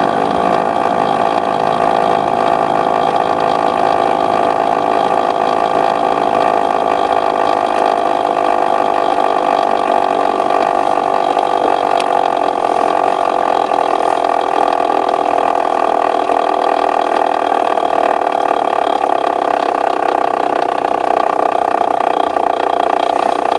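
Aprilia RS125's 125 cc two-stroke single-cylinder engine running at a steady speed.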